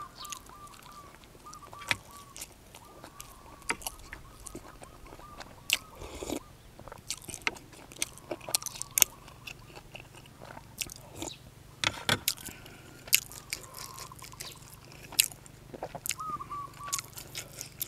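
Close-up chewing and biting of sticky rice with minced-fish laab, with many short wet clicks of the mouth scattered irregularly.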